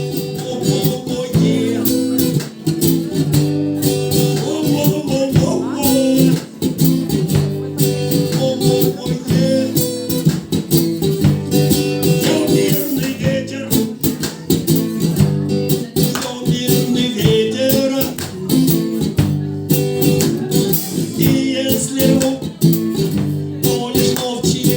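Guitar strummed in a steady rhythm, a rock song played live.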